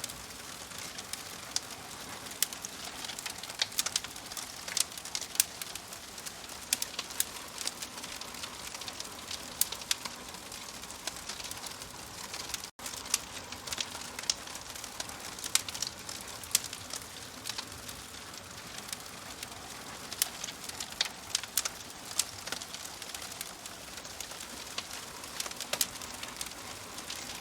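Wood fire crackling in a fireplace: a steady hiss with many sharp, irregular pops and snaps. The sound cuts out for an instant about halfway through.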